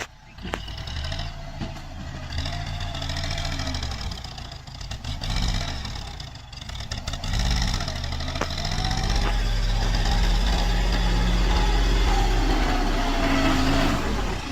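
Tractor diesel engine running, its speed dropping and rising a few times around the middle, then holding steady and louder in the second half.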